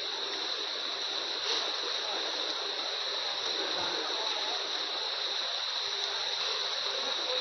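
Heavy rain falling: a steady, even hiss of water.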